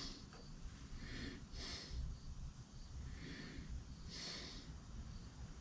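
Faint breathing close to the microphone: a few soft breaths in and out, about a second apart.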